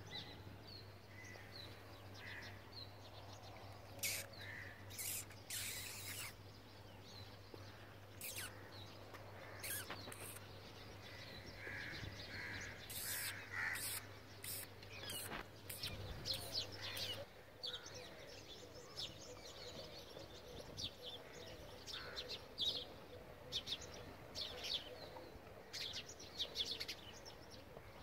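Birds chirping in short, scattered calls throughout, over a low steady hum that stops about two-thirds of the way through.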